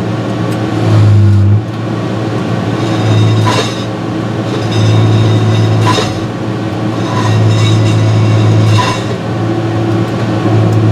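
John Deere 6068 six-cylinder diesel engine running steadily, its low hum swelling and easing every couple of seconds. A few short sharp beeps come through, about two to three seconds apart.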